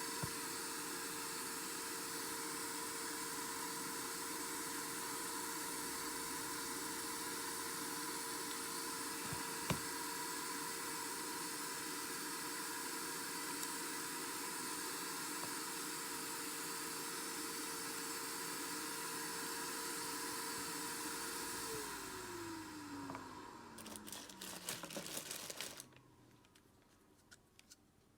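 A hot-air blower runs with a steady whine and hiss. Near the end it is switched off and its fan winds down, the whine falling in pitch over a few seconds, while quick clicks of handling come in.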